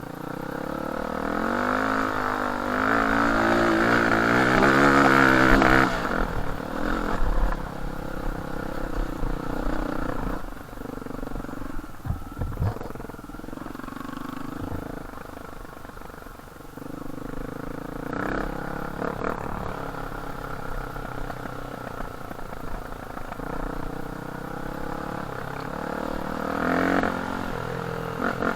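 Dirt bike engine accelerating, its pitch rising for about six seconds and then dropping abruptly, then running at changing revs over the rest of the ride, with a few brief knocks and another short rise in revs near the end.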